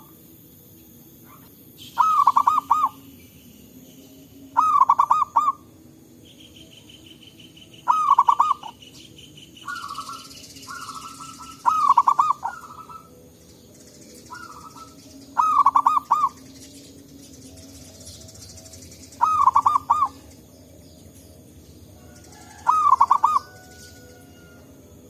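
Zebra doves (perkutut) cooing: a loud, rapid phrase of bubbling notes repeated every three to four seconds, with fainter short calls answering in between. A high, steady trill runs from about six to twelve seconds in.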